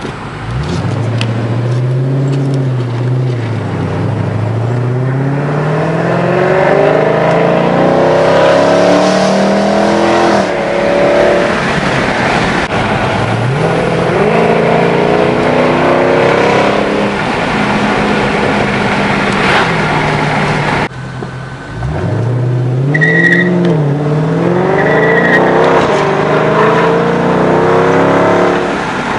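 Dodge Charger Scat Pack's 6.4-litre HEMI V8 exhaust, running through Dynomax mini race bullets in place of the mid mufflers with the stock resonators kept, pulling up through the revs several times. The pitch climbs over a few seconds, drops back, and climbs again, with an abrupt break about two-thirds of the way through.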